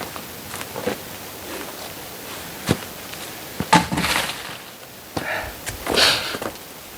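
Oak firewood being handled: a few sharp wooden knocks, the loudest about four seconds in, each followed by short scraping rustles.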